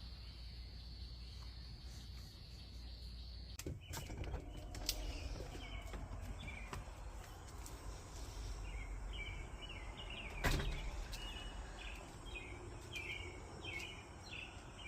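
A steady high insect trill, then, after an abrupt cut about four seconds in, birds chirping over and over in short bursts. A sharp knock about ten seconds in is the loudest sound.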